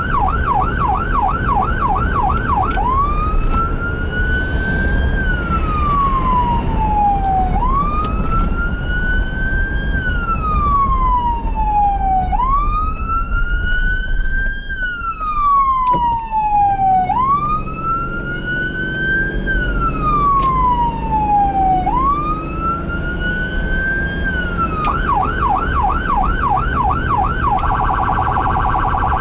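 Emergency vehicle's electronic siren, starting on a fast yelp, switching about three seconds in to a slow wail that rises and falls five times, then back to yelp near the end and a very fast warble in the last seconds. A steady low rumble of the vehicle runs underneath.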